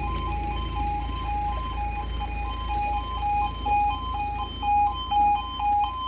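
Level crossing warning alarm sounding a two-tone warble, alternating between a lower and a higher note about twice a second, over a low steady rumble. The alarm grows louder and more pulsing over the last couple of seconds.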